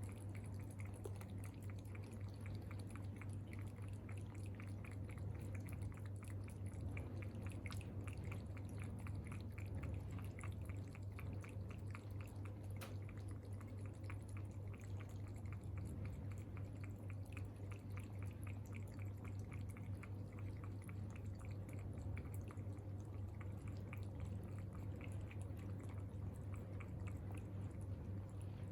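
A cat eating: a long run of small, quick clicking and smacking sounds of chewing, over a steady low hum.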